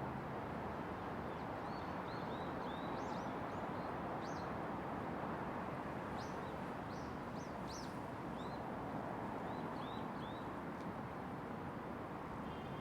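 Small birds chirping in many short, quick calls over a steady hum of distant city traffic; the chirping stops about two seconds before the end.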